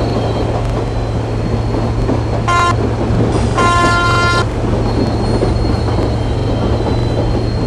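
Train horn sounding two blasts, a short one about two and a half seconds in and a longer one about a second later, over the loud, steady rumble of a running train.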